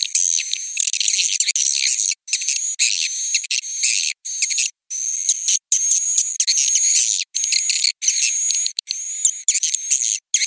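Swiftlet roosting call ('suara inap') of the kind used as a lure in swiftlet farming: dense, high-pitched twittering and chirping over a steady thin whistle-like tone. It is cut by abrupt brief silences about once a second.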